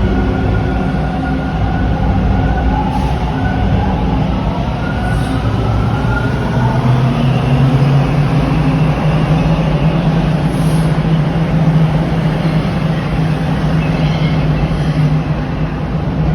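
A TTC Bombardier T1 subway train running in the station. Its electric traction motors whine, rising in pitch over the first several seconds, over a steady low hum.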